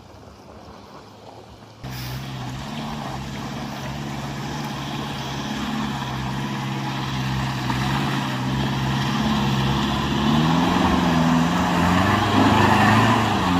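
Pickup truck's engine working hard on a climb. It comes in abruptly about two seconds in and keeps getting louder, and near the end the pitch rises and falls as the revs swing up and down.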